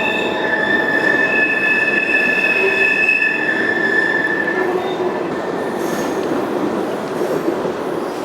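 Passenger train's steel wheels squealing on the rails, a steady high-pitched squeal over the rumble of the moving railcar; the squeal fades out about halfway through while the rumble carries on.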